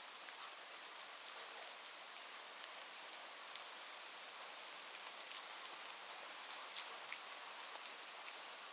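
Steady rain falling, an even hiss with many scattered sharp ticks of individual drops hitting a surface.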